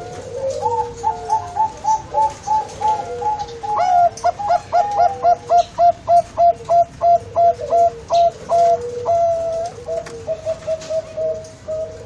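Zebra dove (perkutut, Bangkok song strain) singing: a long rhythmic run of short, clear cooing notes, about three a second, loudest through the middle of the run.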